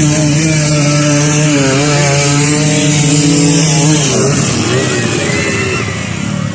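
Off-road trail motorcycle engine running at steady high revs, then dropping off about four seconds in and revving up and down unevenly.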